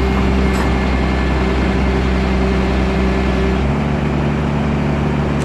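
Heavy diesel engine of a construction machine running steadily, its note changing a little about three and a half seconds in.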